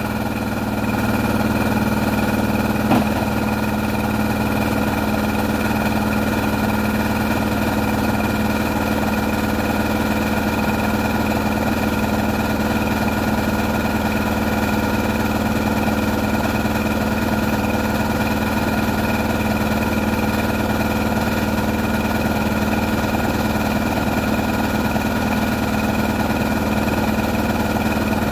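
Small motor on a handmade boat or pump rig running at a steady speed, with an even whine and hum; a single brief tick about three seconds in.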